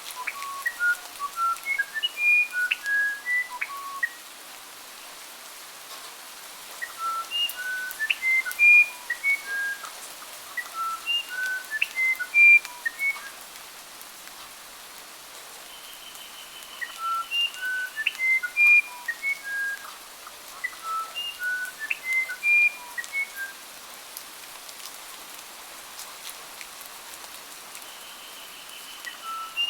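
A songbird singing phrases of clear whistled notes that hop up and down in pitch, each phrase lasting a few seconds with short pauses between. Twice a single long, steady high whistle is held, over a faint steady hiss.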